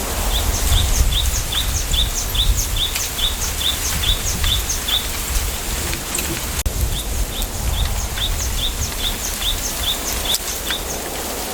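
A small bird calling in two long runs of short, high chirps, about three a second, in a bamboo grove, over a steady low rumble of wind.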